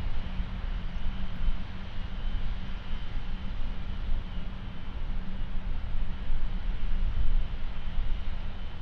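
Jet engines of a departing Boeing 737-800 airliner, a steady low rumble with a faint high whine.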